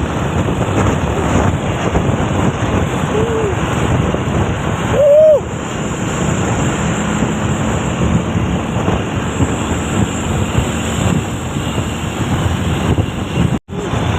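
Truck engine and road noise with wind buffeting the microphone. A short tone sounds about three seconds in, and a louder, higher one about five seconds in, the loudest sound here. The sound drops out briefly near the end.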